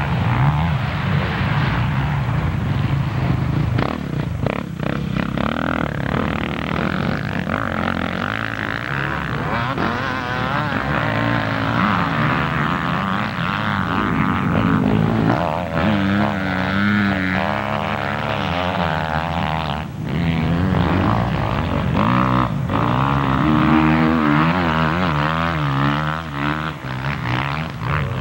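Motocross bike engines racing on the track, revving up and down, with the pitch rising and falling continually as they accelerate and shift.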